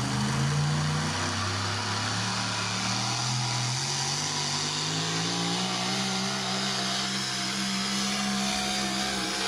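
Modified diesel pickup truck engine under load. Its pitch dips briefly, climbs steadily for a few seconds as the revs rise, then holds steady and high.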